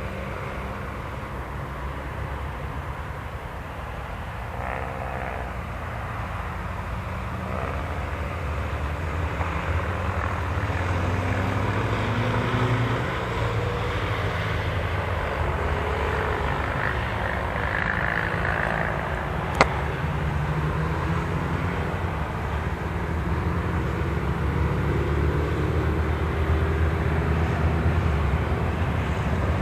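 Classic cars driving past on a race circuit, engine notes rising and falling as each goes by over a steady low rumble that grows gradually louder. A single sharp click about twenty seconds in.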